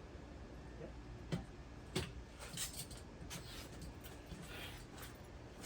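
Faint clicks and taps of hands and small metal parts being handled on an electric pool pump motor, with two sharper clicks about one and a half and two seconds in.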